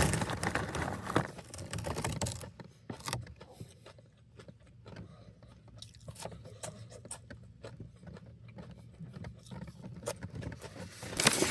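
A person chewing extra-crispy French fries with mouth-close crunching and crackling, louder for the first couple of seconds and then softer.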